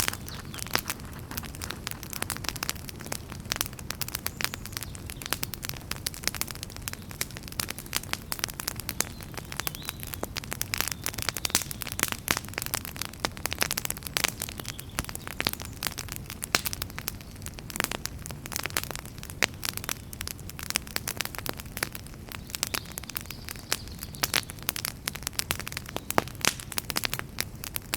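Wood fire burning in a fireplace: many sharp, irregular crackles and pops over a steady low rumble of flame.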